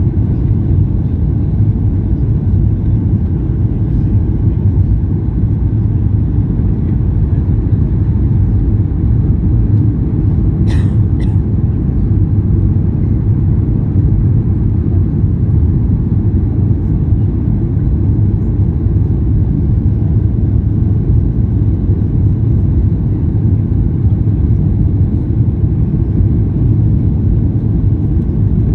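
Passenger airliner landing: a steady, loud low rumble of engines and airflow that does not change, with two brief clicks about eleven seconds in.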